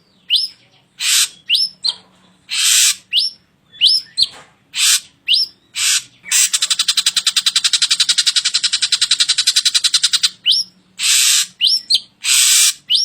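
A drongo singing: short, rising whistled notes alternating with brief harsh, raspy calls, then a fast, even rattle of about a dozen pulses a second lasting about four seconds, before the whistles and harsh calls return.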